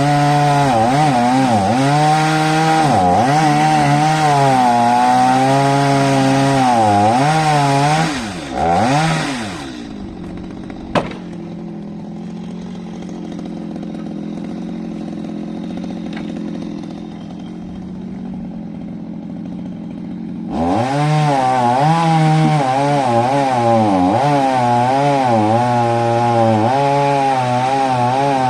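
Chainsaw cutting wood, its engine pitch wavering under load. About ten seconds in it drops to a quieter idle with one sharp click, then revs up and cuts again from about twenty seconds in.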